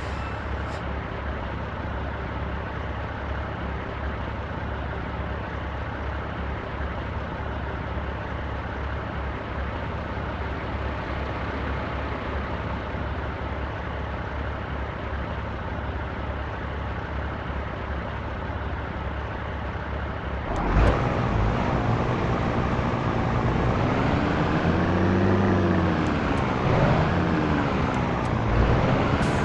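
Scania T113 truck's diesel engine running steadily. About 21 seconds in it gets louder, and its pitch rises and falls several times.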